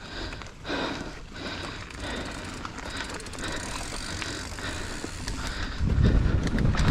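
Mountain bike rolling downhill on a trail, with the tyres and bike rattling and clicking over the ground. About six seconds in, a loud low rumble of wind on the microphone sets in as speed picks up.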